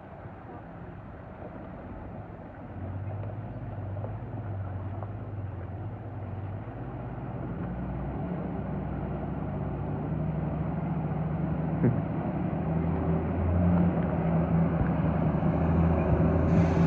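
Four-wheel-drive vehicle's engine running, a steady drone that grows steadily louder over the seconds, with a single short click partway through.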